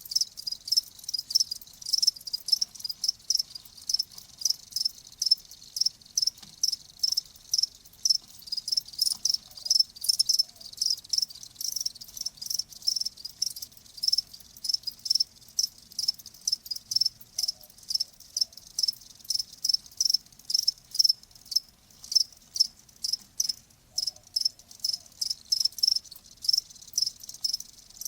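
Crickets chirping: short, high chirps repeated steadily, a couple of times a second.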